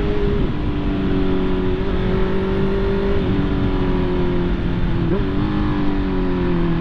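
Honda CB650R inline-four engine running under way, its pitch easing slowly down with a couple of small steps and a short blip about five seconds in, over steady wind and road rush.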